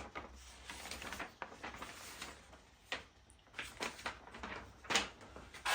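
Rummaging through packaging and parts in a cardboard box: irregular rustling with light knocks and clicks, and a sharper knock about five seconds in.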